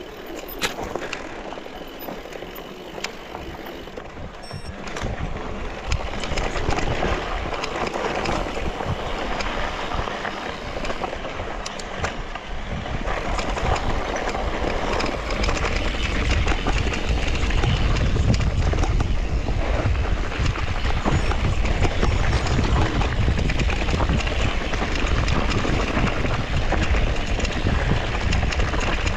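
Electric mountain bike ride on a dirt trail: tyres rolling over the ground with a few sharp clicks and rattles in the first seconds. The noise grows louder, and from about halfway the wind buffets the microphone heavily as the speed picks up.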